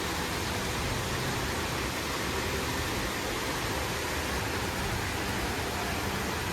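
Steady rushing of raging floodwater, an even noise with no breaks.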